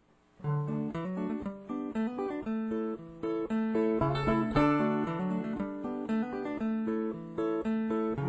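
Acoustic guitar playing a picked instrumental intro, starting about half a second in.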